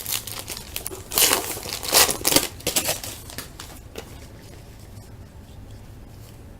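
Plastic wrapper of a baseball card pack crinkling and tearing as it is ripped open, in several rustling bursts over the first three seconds, then only faint handling ticks.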